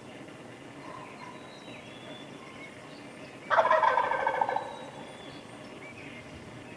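A wild turkey tom gobbling once, a loud rattling call about halfway through that lasts just over a second and trails off. Small songbirds chirp faintly throughout.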